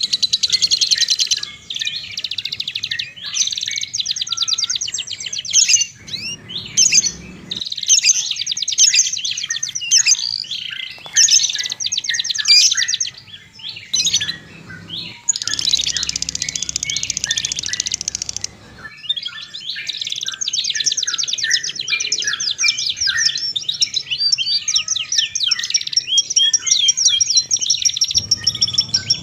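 Songbirds chirping and singing in high-pitched, fast trills and rapid chirps. The song changes abruptly every few seconds, like a run of spliced recordings.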